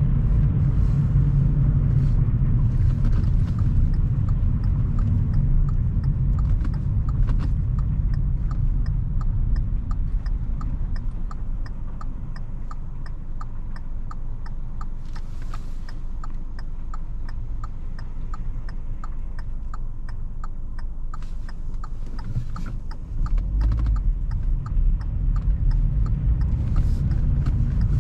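Car cabin on the move: engine and road rumble, easing off in the middle and getting louder again about 23 seconds in as the car picks up speed. A steady light ticking runs through most of it.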